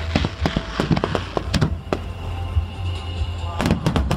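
Fireworks bursting with rapid sharp bangs and crackles over music from loudspeakers: a dense run of bangs in the first two seconds, a lull with the music carrying on, then another cluster of bangs near the end.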